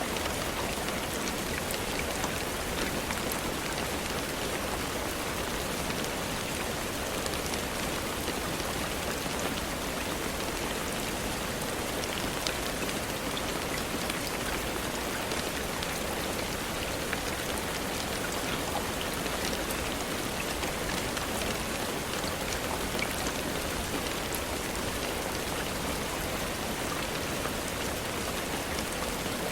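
Steady rain falling, an even hiss with many small drop taps scattered through it.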